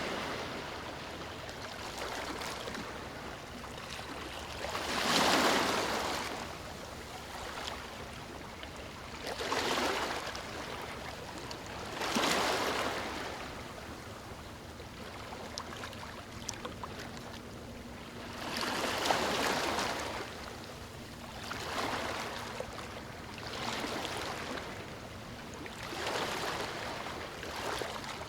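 Ocean waves breaking on a beach: a continuous wash of surf that swells every few seconds as a wave breaks, about seven times, the loudest about five seconds in.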